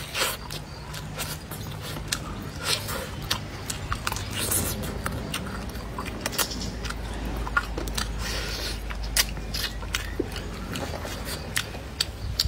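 Close-up eating sounds of a person biting and chewing braised pork ribs: many short, irregular mouth clicks and smacks.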